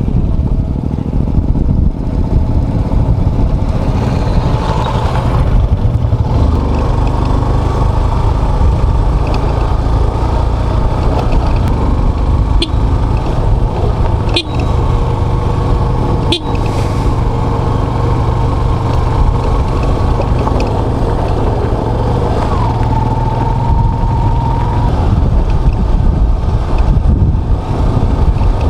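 Motorcycle riding along steadily, probably a Yamaha FZS's single-cylinder engine, with a deep continuous rumble of engine and wind on the microphone. A few clicks come in the middle, and a steady higher tone sounds for about two seconds late on.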